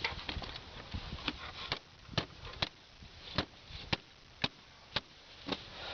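A string of light, sharp clicks and taps, irregularly spaced at about two a second, from parts being handled around the engine bay.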